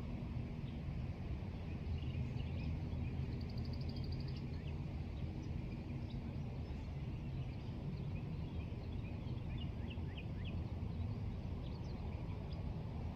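Outdoor ambience of songbirds giving scattered short chirps, with a brief rapid trill about three to four seconds in, over a steady low rumble.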